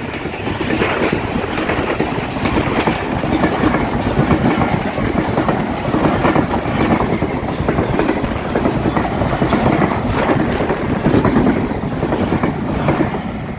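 Pakistan Railways passenger coaches rolling past at speed, their wheels running on the rails with a steady rumble and regular pulses of clatter.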